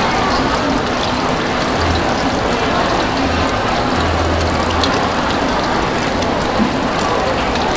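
Egg and onion sizzling in hot oil in a carbon-steel wok, a steady crackling hiss with scattered small pops.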